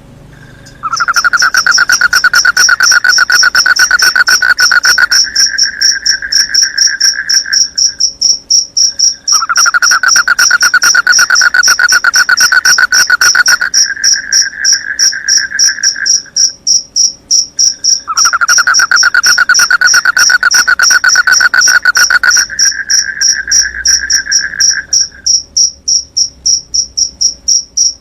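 Crickets chirping in a fast, high-pitched pulsing chorus that starts suddenly about a second in. Over it, a lower-pitched pulsing trill comes in three long bouts of about seven seconds each, each stepping up in pitch partway through.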